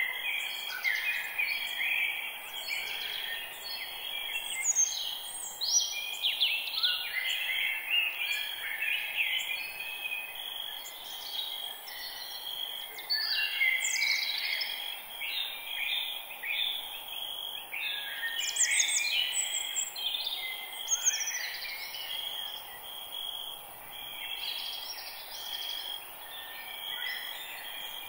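Several wild birds singing at once, a dense chorus of overlapping chirps, quick sweeping whistles and trills, over a steady high hiss.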